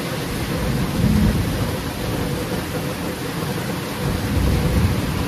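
Heavy rain falling steadily, with low rolls of thunder rumbling about a second in and again near the end.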